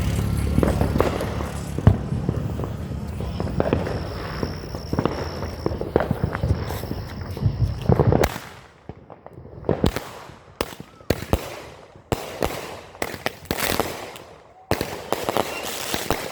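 A consumer firework, the Raging Rottweiler, going off: dense crackling over a low rumble for about the first half, then a string of sharp, echoing bangs, roughly one every half second to second.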